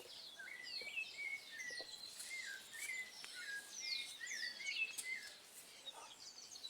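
Several wild birds chirping and calling together, a busy run of short, quick whistled notes that swoop up and down and overlap.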